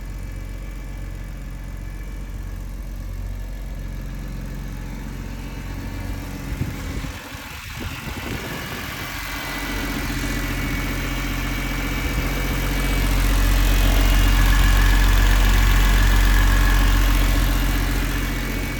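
BMW S54 3.2-litre straight-six in an E30 idling steadily. About seven seconds in there is a brief uneven disturbance, then the sound grows louder from about ten seconds, peaks for a few seconds with its pitch unchanged, and eases off near the end.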